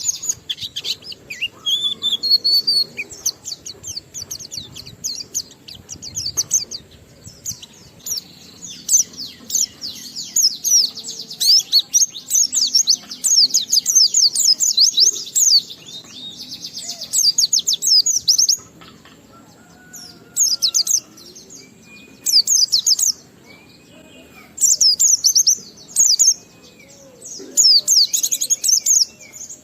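White-eye (pleci) singing its long, rapid twittering 'ngalas' song in loud high-pitched phrases several seconds long. A few softer, lower whistled notes fill a pause in the middle.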